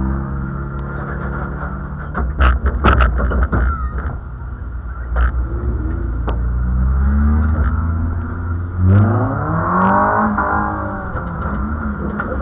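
Dirt-track race car's engine idling unevenly while the car stands still, heard on board, with a rev rising and falling about nine to ten seconds in. A cluster of sharp knocks and clatters about two to three and a half seconds in.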